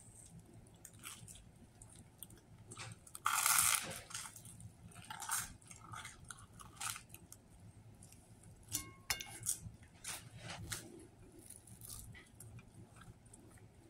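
Close-up chewing and biting of a toasted sub sandwich: wet mouth sounds and scattered crackles of the toasted bread, with one louder burst of crunching about three seconds in.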